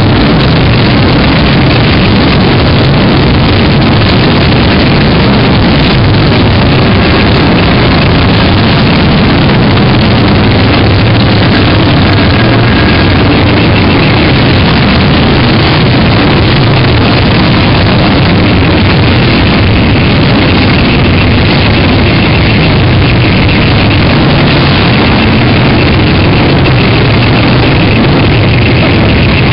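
Many motorcycle engines running together as a procession of bikes rides past, a steady, very loud din of engine noise with no break.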